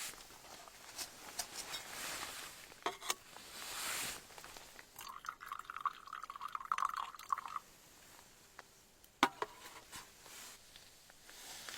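Liquid being poured into a container for about three seconds in the middle, among light cookware handling noises and a few sharp knocks, one near the start and one about nine seconds in.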